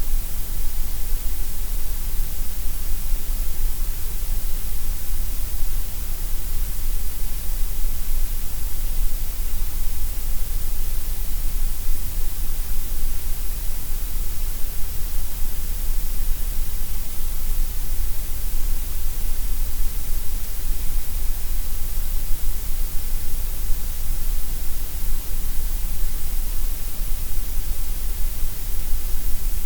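Synthetic gray noise: a steady, even hiss across the whole frequency range, unchanging throughout.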